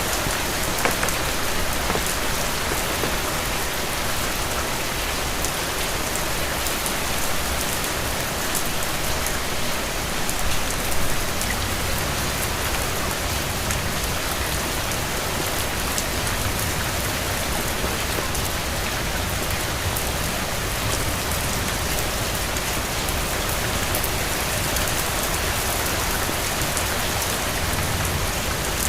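Steady rain falling, with individual drops ticking over an even hiss.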